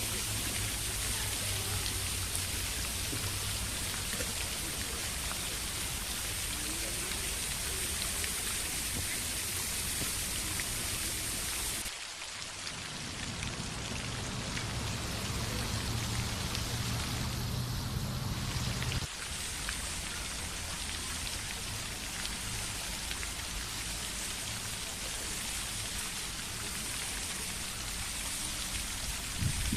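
Steady splashing and pattering of water, changing abruptly about twelve seconds in and again near nineteen seconds as one water recording gives way to another.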